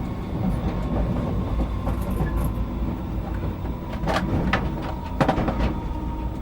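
Class 508 electric multiple unit running along the line, heard from the driver's cab as a steady rumble. Two pairs of sharp clicks come in the second half as the wheels pass over rail joints.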